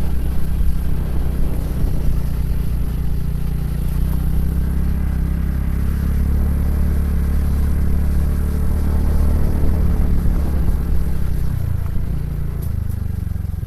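Motorcycle engine running steadily under way as the bike is ridden, a constant low hum that settles slightly lower near the end.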